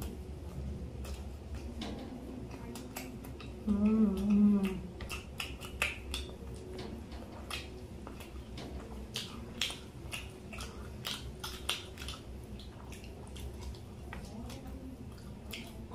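People chewing and eating chicken lollipops: wet mouth clicks and smacks scattered irregularly, with a brief hummed voice sound about four seconds in.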